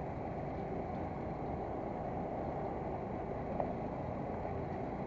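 Fishing boat under way: a steady low rumble of engine and water noise. A small tick comes about three and a half seconds in.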